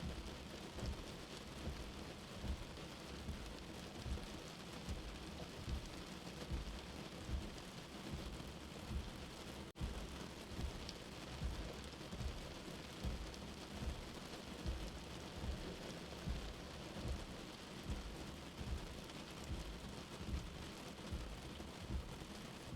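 Steady rain as heard from indoors, mixed with a soft, low heartbeat that thumps about once a second. The sound drops out for an instant about ten seconds in.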